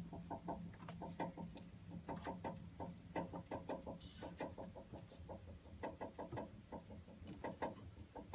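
Navien water heater knocking and rattling fast and irregularly, several knocks a second, over a steady low hum. It is the fault noise that keeps coming back and has not been traced to any part yet.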